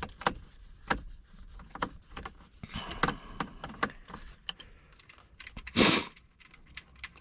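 Scattered small clicks, taps and rattles of hand work with a Phillips screwdriver on plastic steering-column trim, with a louder brief scrape about six seconds in.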